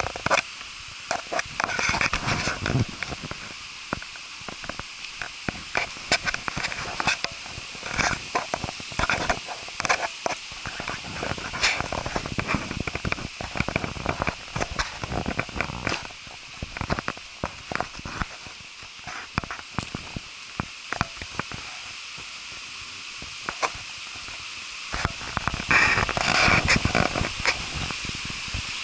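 Steady rushing hiss of a waterfall, with many irregular crackles and knocks over it, thickest about two seconds in and again near the end.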